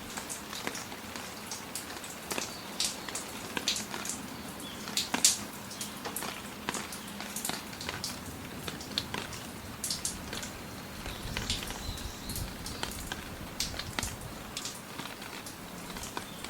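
Rain falling, with many separate drops landing close by at irregular moments over a steady hiss.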